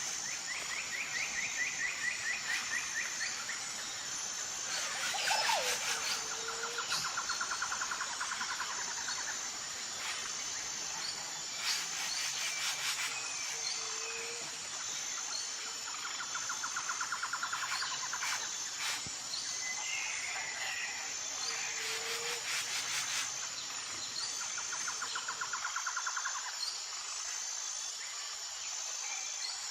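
Tropical forest ambience: insects keep up a steady, high, evenly pulsing drone under repeated rapid bird trills, each lasting two to three seconds. A short low whistled bird note comes about every eight seconds, and a few brief bursts of sharp clicks are heard.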